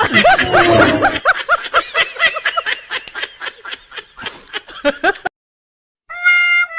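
Laughter sound effect: a person laughing in rapid, high-pitched bursts for about five seconds, then cutting off abruptly. After a short silence, a steady pitched musical tone starts near the end.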